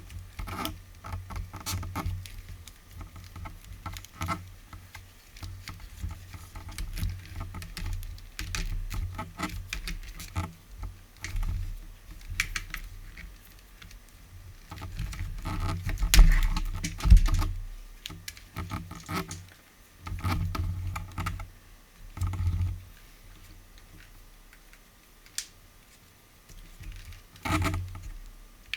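Hands working on vacuum cleaner parts: irregular plastic clicks, taps and rustles with low knocks, the loudest two close together about halfway through.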